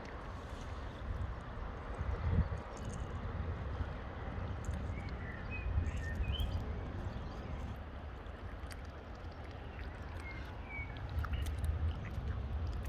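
Wind buffeting the microphone with a steady low rumble beside open water, with a few short bird chirps about five seconds in and again near the end.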